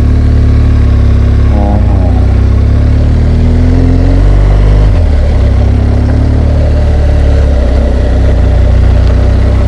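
BMW R1200GS Adventure's flat-twin boxer engine running under way, picked up by a helmet-mounted camera. Its pitch climbs from about two seconds in, drops sharply near the middle, and then holds steady.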